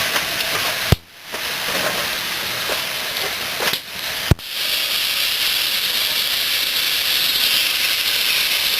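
Steam locomotive hissing steam, with two sharp clicks about one and four seconds in, after which the hiss becomes stronger and steadier.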